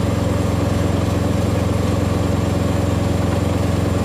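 Heavy diesel truck engine idling steadily, a low, even drone.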